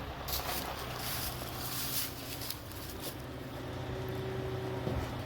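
Heavy truck engine running steadily at a low, even speed, with several short bursts of hiss in the first three seconds.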